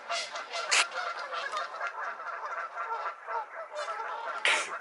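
A flock of geese honking and calling over one another in a dense, continuous chatter of short calls. Two louder, harsher short bursts stand out, about a second in and near the end.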